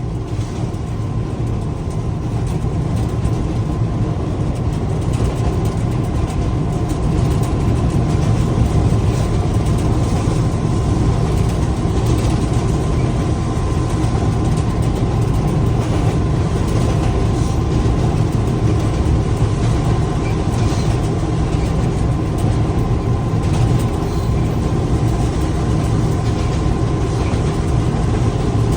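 Locomotive engine running steadily, with a constant low rumble and a steady high whine over it; the level builds slightly over the first few seconds and then holds.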